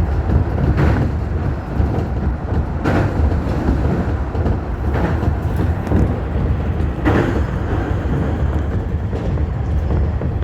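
Tobu Tojo Line commuter train running at speed, a steady low rumble of wheels on rail with a regular knock about every two seconds, as it crosses the Iruma River bridge.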